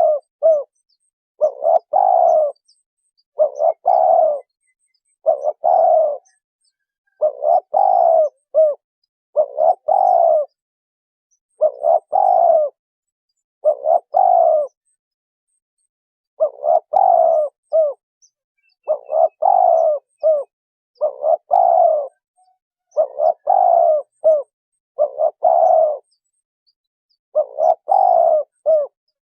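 Spotted dove cooing: a short multi-note coo phrase repeated about every two seconds, with a couple of slightly longer pauses.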